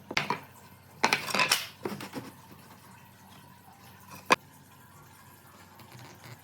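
A few short clatters and knocks of hard objects being handled, the busiest about a second in, then one sharp click about four seconds in.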